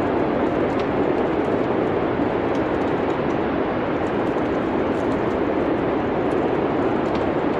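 Steady wind noise from a winter storm, with faint scattered crackles of a wood fire in a fireplace.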